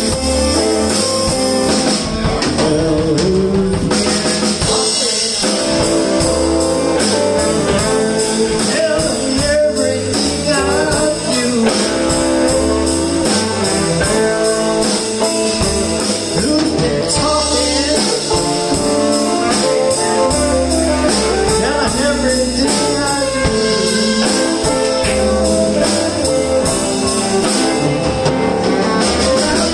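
Live electric blues band playing a slow blues: electric guitar over bass and drum kit.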